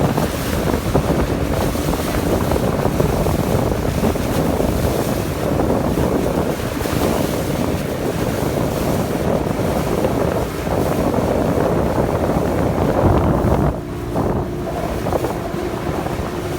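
Wind buffeting the microphone on a moving motorboat, over the rush of water and the boat's engine running steadily. The noise drops briefly about fourteen seconds in.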